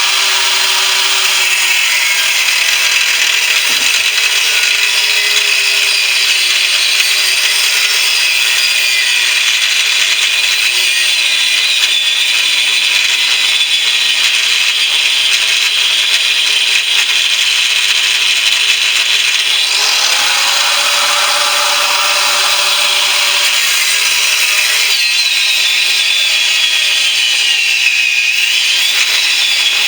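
Power tool running continuously while cutting open a central air unit's compressor, its pitch wavering up and down as the cut loads it.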